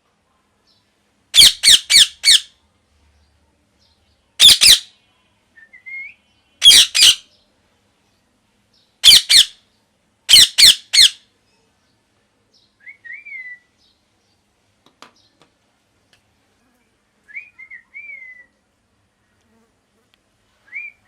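Pet parrot giving loud, harsh squawks in quick runs of two to four during the first half, followed by softer short whistled chirps that rise and fall.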